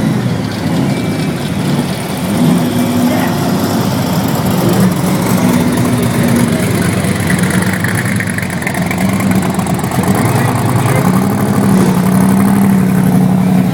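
Car engines running at low revs, their pitch stepping up and down as they are given a little throttle, with a rise about eleven seconds in.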